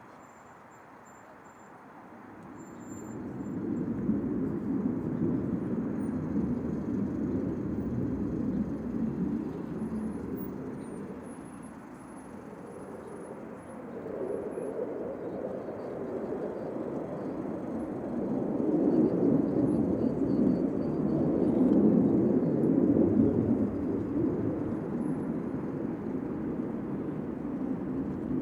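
Jet aircraft flying past: a rushing jet rumble swells up a few seconds in, eases off briefly, then builds again to its loudest as more passes come through.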